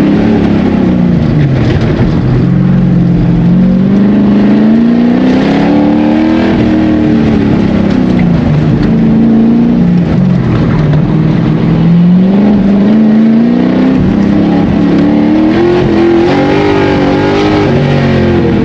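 Car engine being driven hard around an autocross course, revving up and easing off again and again, its pitch rising and falling every few seconds.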